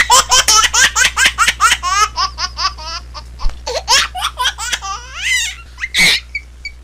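Baby laughing in a fast string of pitched laugh pulses, about five a second, that slow and spread out after about three seconds, with one short loud burst just after six seconds.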